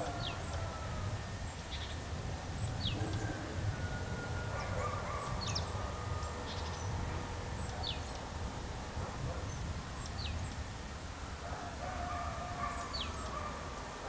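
Wild birds calling: short, high, falling notes every second or two at irregular intervals, with fainter, longer drawn-out calls lower in pitch in the background, over a steady low outdoor rumble.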